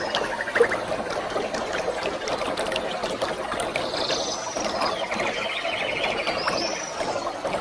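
Waterfall: a steady rush of falling water, with a bird's chirps and a quick trill over it from about halfway through.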